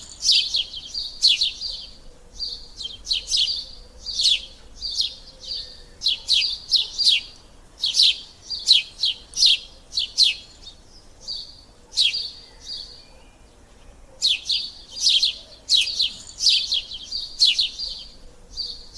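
Sparrows chirping: a rapid, dense run of short, sharp chirps that eases off briefly about two-thirds of the way through, then picks up again.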